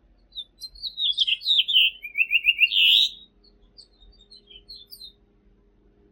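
A finch singing one song of about two and a half seconds: a run of notes falling in pitch, then a short quick trill and a loud final flourish. A few soft, scattered high notes follow.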